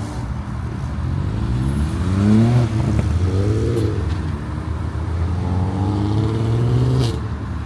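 A Volkswagen R36's VR6 engine accelerating, its pitch climbing in several pulls, loudest about two and a half seconds in and dropping away near the end.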